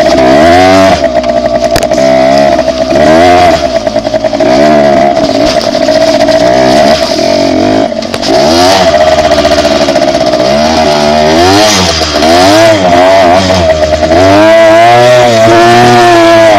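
Dirt bike engine under way, loud and close, its pitch climbing and dropping back again and again as it revs through the gears, over a steady whine.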